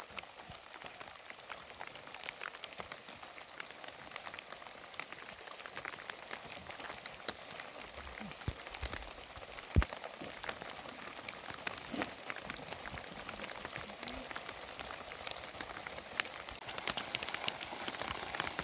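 Rain falling steadily, with many separate drops striking close by as sharp ticks, and one louder knock just under ten seconds in.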